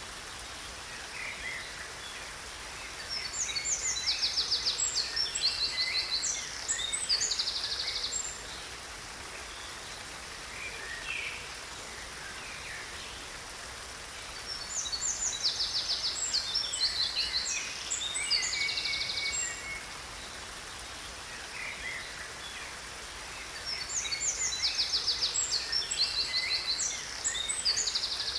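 Songbird song in three bouts about ten seconds apart, each made of high, fast trills and runs of rapidly repeated notes. Under it runs a steady rush of falling water from a waterfall.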